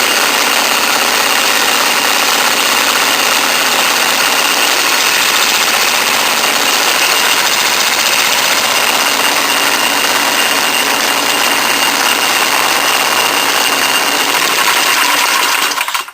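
Small go-kart engine running steadily, then stopping abruptly near the end.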